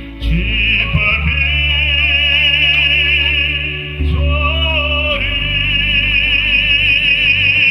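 Classical, operatic-style solo singing with a wide vibrato on long held notes, over sustained instrumental accompaniment. New sung phrases begin just after the start and again about four and five seconds in.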